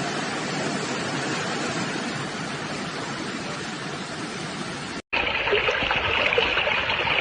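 Floodwater rushing, a steady even rush. It breaks off suddenly about five seconds in and another rush of water with a brighter hiss follows.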